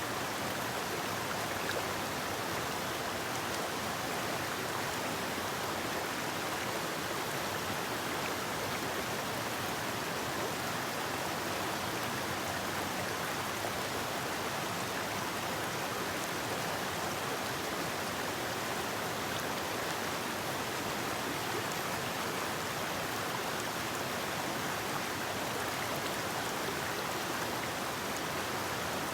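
Forest river flowing over rocks: a steady rush of water with no breaks.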